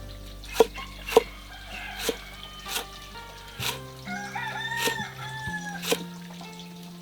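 A rooster crowing once, about four seconds in, over sharp knocks roughly every half second and background music with held low notes.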